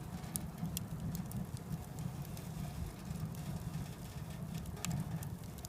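Firewood burning in a small wood stove, with scattered sharp crackles and pops over a steady low rumble.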